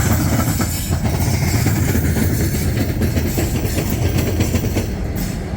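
Diesel work locomotives moving off along the track: a steady low engine rumble with wheels clacking over the rail joints.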